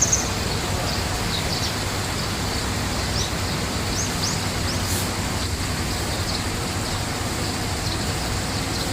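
Small birds chirping briefly and sparsely, short high chirps scattered through, over a steady rushing background noise. A single brief click about five seconds in.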